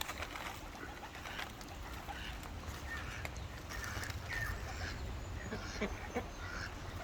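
Birds calling while they feed: a run of short chirps, coming more often in the second half, over a steady low rumble.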